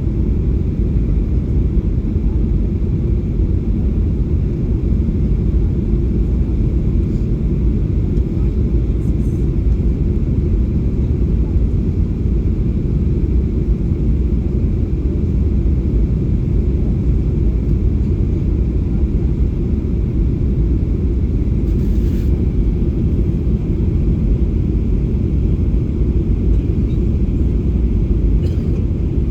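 Steady low rumble of a Boeing 737-800 airliner during its landing approach, even and unchanging throughout.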